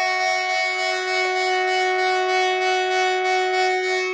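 Train horn held in one long, steady blast of several notes sounding together.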